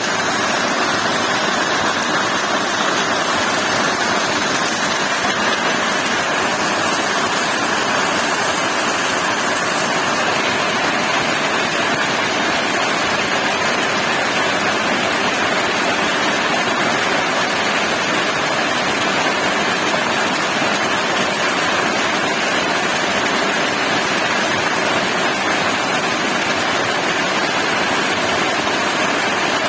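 Heavy rain falling steadily, an even, unbroken hiss with no thunderclaps.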